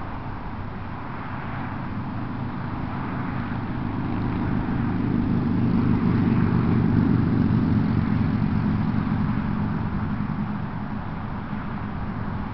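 A motor vehicle's engine hum swells to a peak about seven seconds in and then fades, as a vehicle passing by would.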